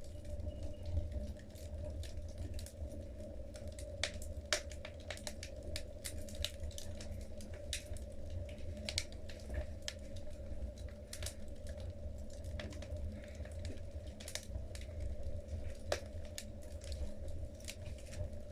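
Wood fire burning in a fireplace, the logs crackling with irregular sharp pops and snaps over a steady low rumble of the flames.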